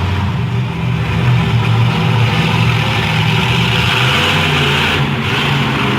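Monster truck engine running loud, its pitch shifting a little as it revs.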